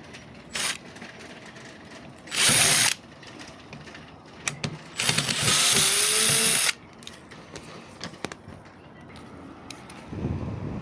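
Handheld power tool running in three short bursts: a brief one, one of about half a second, then a longer one of nearly two seconds, with light clicks of handling between.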